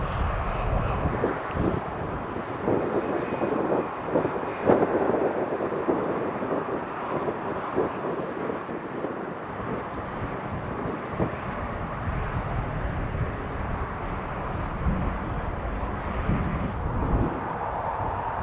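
Aircraft engine noise, a steady rush, with gusty wind buffeting the microphone in irregular low rumbles. A faint high whine sounds during the first few seconds.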